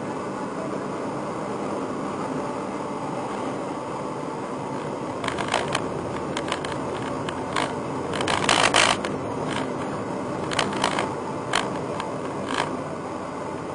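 Steady running noise from a Nissan GT-R (R35), with scattered sharp clicks from about five seconds in and a louder burst of rattling clicks around eight seconds in.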